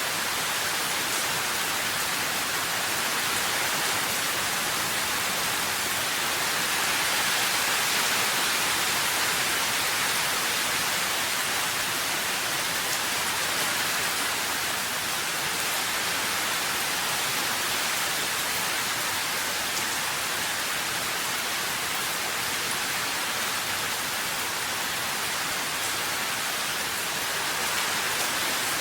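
Steady rain falling: a dense, even hiss that holds without a break.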